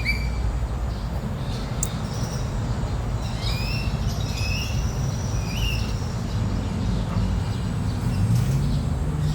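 Birds chirping: a quick cluster of short rising calls about three to four seconds in and another near the middle, over a steady low background rumble.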